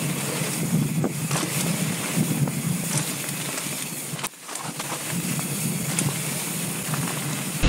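Mountain bike riding down a dirt trail: wind buffeting the camera microphone over steady tyre noise and scattered clicks and rattles from the bike. The sound drops away for a moment about four seconds in.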